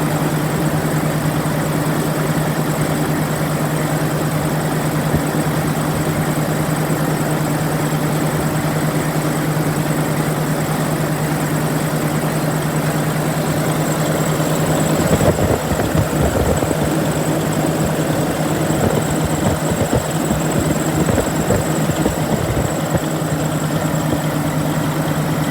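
Detroit Diesel Series 60 12.7-litre inline-six diesel engine running at idle, steady at first; about fifteen seconds in the sound turns rougher and more uneven.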